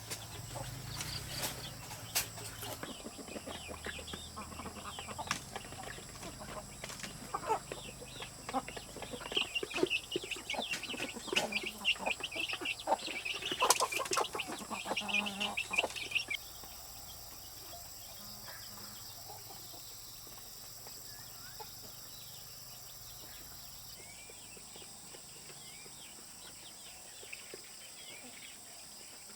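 Chickens clucking among scattered short knocks and scratchy sounds, then a sudden change about sixteen seconds in to a steadier, quieter outdoor background.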